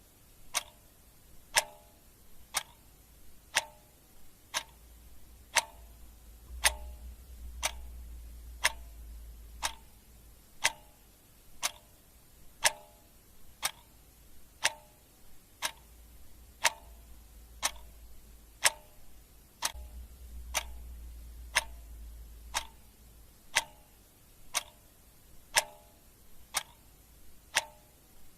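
Clock ticking steadily, about one sharp tick per second.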